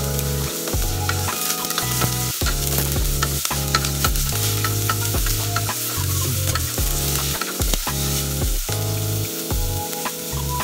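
Onion and garlic sizzling in oil in an aluminium pot, stirred with a spatula that scrapes and taps against the pot now and then, alongside background music with a changing bass line.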